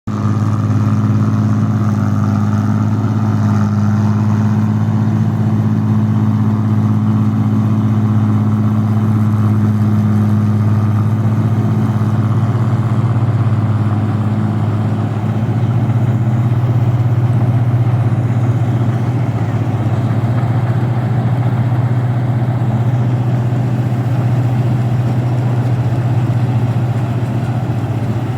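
Rice combine harvester's engine running steadily with a loud low hum, its pitch shifting slightly about halfway through.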